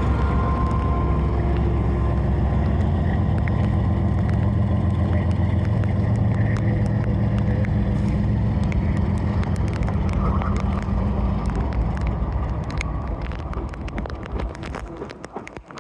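Diesel freight locomotive running with a steady low drone that fades away over the last couple of seconds as the train moves off. A thin steady tone sounds in the first second, and sharp clicks come through in the second half.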